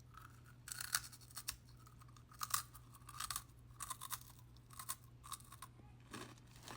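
A person chewing crunchy Cheetos close to the microphone, in irregular crunches about one or two a second.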